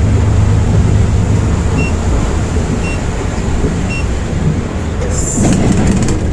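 Volvo B8R bus heard from inside the cabin, its engine and road noise making a steady low rumble. Three short high electronic beeps come about a second apart in the middle, and there is a brief hiss about five seconds in.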